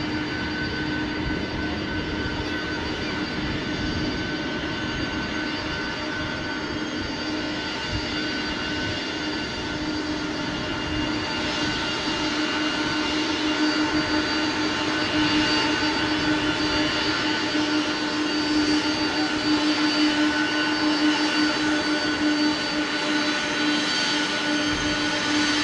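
Boeing 747-400F's four turbofan engines running with a steady whine over a rushing noise. It grows louder about halfway through.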